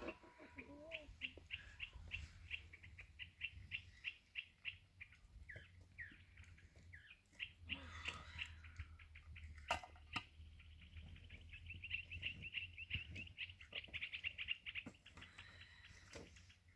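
Small birds chirping in quick, even runs of high chirps, with a single sharp click about ten seconds in.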